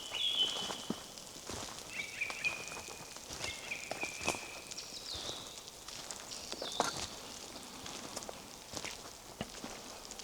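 Forest birdsong: a series of clear whistled phrases, each about a second long at changing pitches, some holding and some stepping down, mostly in the first seven seconds. Footsteps crunch and tick on the forest path.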